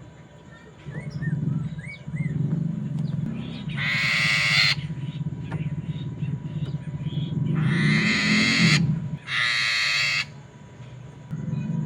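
A poksay mandarin (a laughingthrush) gives three loud, harsh, grating calls, the second two close together. A few faint short chirps come before them, and a low hum runs underneath.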